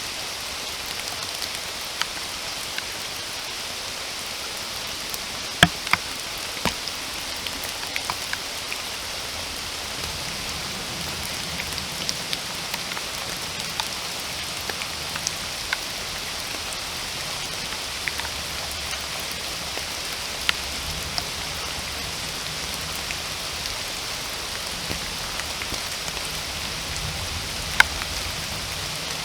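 Steady rain falling, with scattered single drops landing close by as sharp ticks; the loudest come about six seconds in and again near the end.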